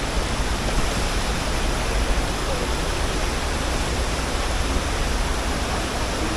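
La Fortuna Waterfall's falling water making a steady, unbroken rush.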